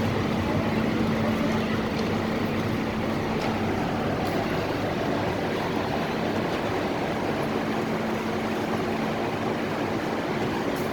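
Steady noise inside an MTR Tung Chung Line K-stock electric train, with a steady low hum.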